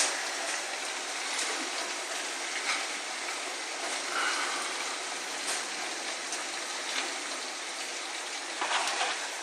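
Heavy rain pouring down in a storm, a steady rushing hiss, with a few sharp knocks scattered through it; the loudest knock comes right at the start and a small cluster comes near the end.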